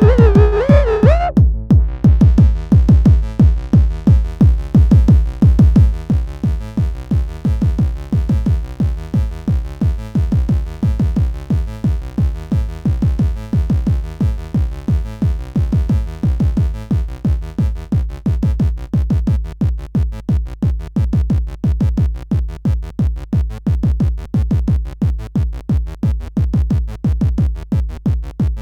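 Electronic synthesizer music: a gliding synth tone cuts off about a second and a half in, leaving a fast, evenly repeating low bass pulse like a drum machine.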